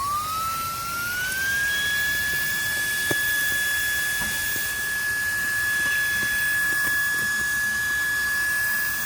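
A VTOMAN ToolCore V22 cordless car vacuum's motor spinning up. Its whine rises in pitch over about a second and a half, then runs steadily at a high pitch over a hiss of rushing air.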